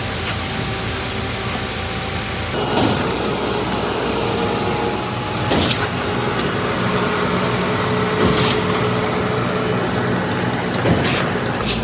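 Heavy truck engine running steadily, with a few short knocks; the sound changes abruptly about two and a half seconds in.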